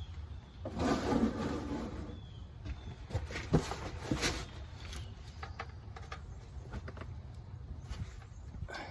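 Oil drain plug being removed from a 5.3L V8's oil pan: a short rush about a second in as the warmed-up oil gushes out against a box and into a catch pan, then scattered clicks and knocks over a steady low hum.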